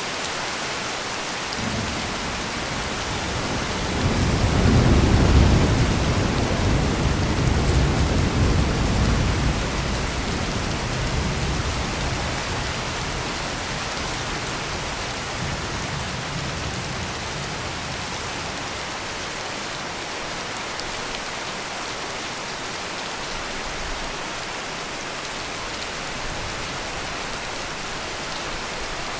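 Heavy rain pouring steadily, with a roll of deep thunder that builds about two seconds in, is loudest around five seconds, and rumbles away over several seconds. A fainter grumble of thunder follows a little later.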